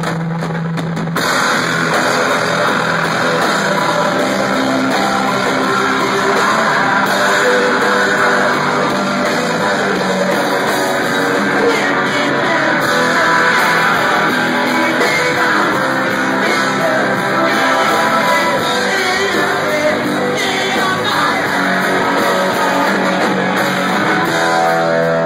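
Live rock band playing loudly: electric guitar and band, with singing; the sound fills out about a second in.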